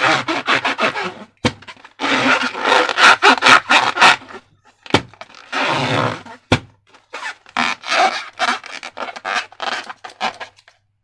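Slime being squished and worked: sticky, crackling squelches come in several bursts, with a few single sharp pops of trapped air between them.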